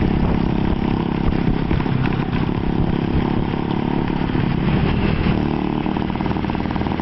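Honda Wave 110i motorcycle's small single-cylinder engine, fitted with a CB throttle body, running steadily while the bike is ridden.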